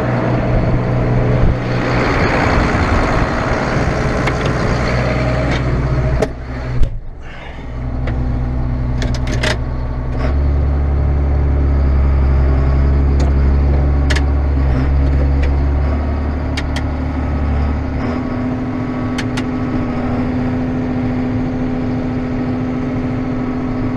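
Engine of farm harvest machinery running steadily with a low drone. The sound breaks off abruptly about six to seven seconds in, then resumes. The drone grows heavier for several seconds from about ten seconds in.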